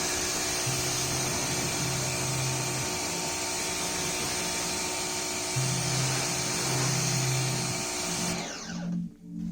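Electric machine polisher running steadily on car paint, then switched off about eight seconds in, its whine falling away as it spins down.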